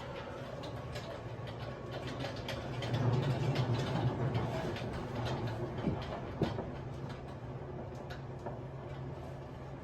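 Cabin running sound of a Tobu 50090 series electric train's motor car on the move: a steady rumble with scattered clicks and rattles, which the recordist puts down to the gangway bellows and the gangway plate. The rumble swells for a couple of seconds about 3 s in.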